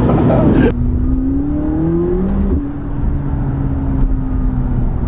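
McLaren 570GT's twin-turbo V8 pulling through a gear, its note rising steadily, then an upshift about two and a half seconds in drops the revs and it runs on at a steady, slightly falling pitch. A louder rush of road noise cuts off sharply under a second in.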